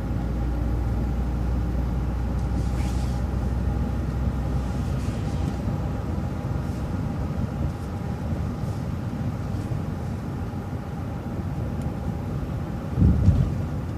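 City transit bus running along the road, a steady engine and road rumble with faint steady tones over it. A short louder low thump about 13 seconds in.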